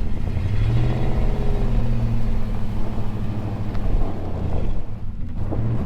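A vehicle engine revving and holding under load, easing off about four and a half seconds in, then revving briefly again near the end.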